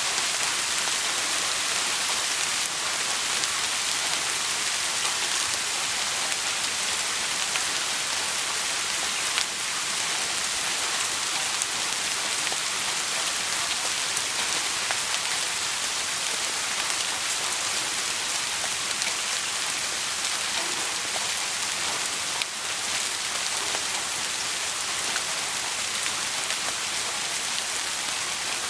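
Steady rain falling, an even hiss of drops, with a few faint ticks.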